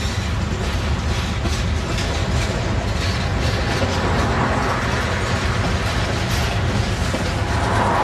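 Freight train rolling past: tank cars, covered hoppers and steel-coil cars running by with a steady rumble of wheels on rail and a faint clatter of wheels over the track.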